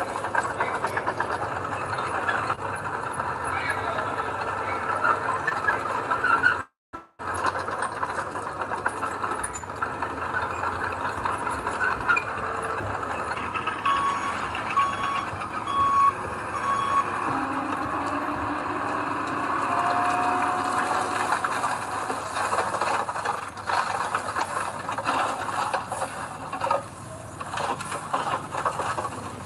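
Heavy earthmoving machinery running, a dump truck and bulldozer engine noise, with a reversing alarm beeping about four times, one a second, around the middle.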